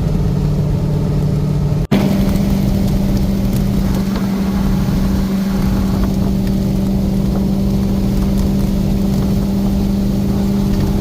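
LS V8-powered Jeep TJ cruising at highway speed: a steady engine drone mixed with road and tyre noise. The sound drops out for an instant about two seconds in, and the drone comes back a little higher in pitch.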